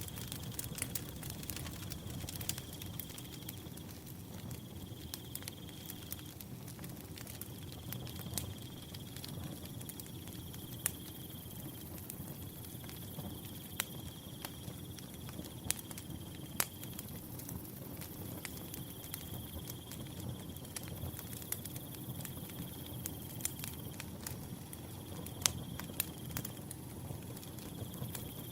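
A wood fire crackling, with frequent sharp pops over a steady low rumble. A cricket trills in high, repeated stretches of a second or more.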